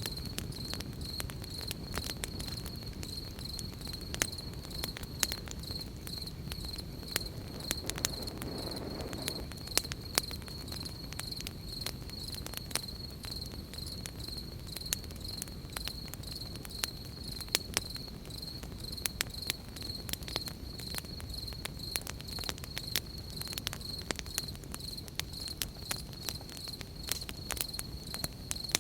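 Crickets trilling in a steady, high, pulsing chorus, with a campfire crackling in frequent sharp pops over a low steady rumble.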